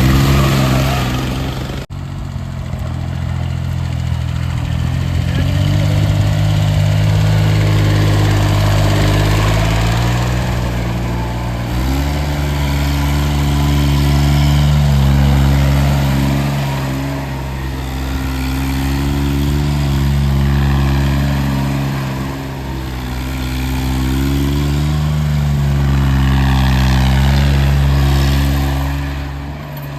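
Small tractor's diesel engine running, its speed rising and falling again and again as it works, with an abrupt break about two seconds in.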